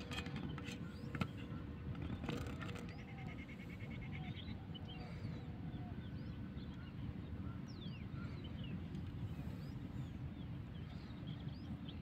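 Small birds chirping in the background, short scattered calls throughout, over a steady low background noise. A few sharp clicks sound in the first couple of seconds.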